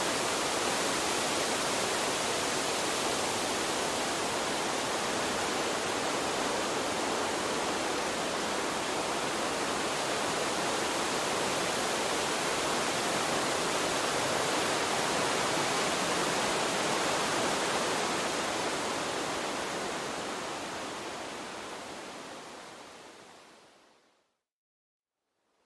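Steady rushing of flowing stream water, which fades out gradually over the last several seconds to a moment of silence near the end.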